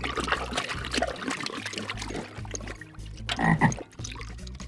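Frog croaking in a run of short calls, the loudest about three and a half seconds in.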